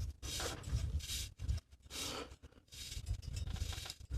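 A series of short scraping rubs, metal on metal, as a threaded part at the mountain bike's bottom bracket is turned by hand until hand tight.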